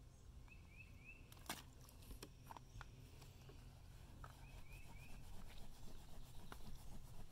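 Quiet outdoor background in which a bird gives two short runs of quick rising chirps, about a second in and again near the middle, with a few faint clicks and taps between them.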